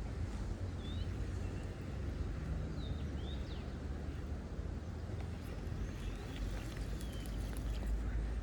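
Small birds chirping in short, quick calls over a steady low rumble.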